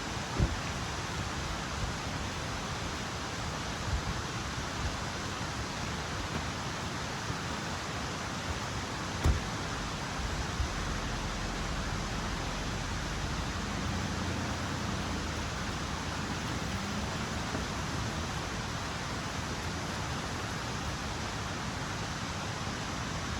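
Steady rushing of water, with three short soft knocks about half a second, four and nine seconds in.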